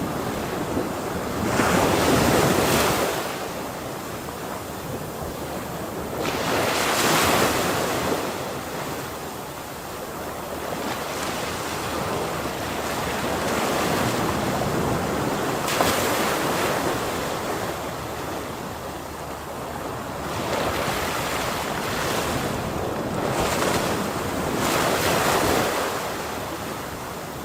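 Ocean waves breaking and washing on the shore: a steady rushing hiss that swells with each breaker, about five surges a few seconds apart.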